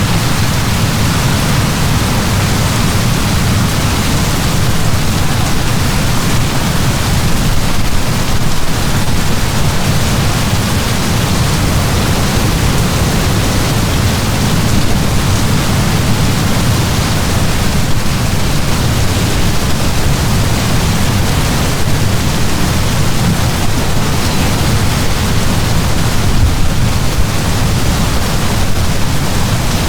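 Heavy rain falling in a steady downpour, a dense, even hiss with a strong low rumble and no individual drops standing out.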